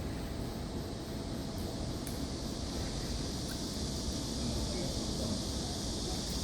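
Outdoor ambience: wind rumbling on the microphone, with a steady high hiss that grows a little stronger about two seconds in.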